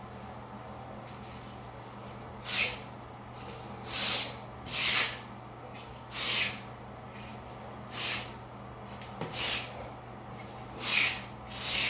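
A float scraping and smoothing dry-pack shower pan mortar in about eight short swishing strokes, spaced irregularly.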